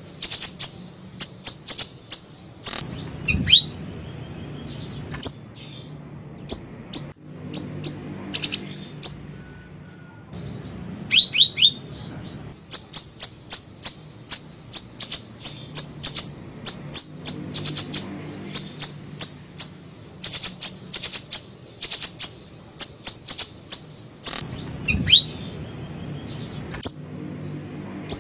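Small siri-siri bird singing: fast runs of sharp, high chirps broken by short pauses, with a few lower, falling notes now and then.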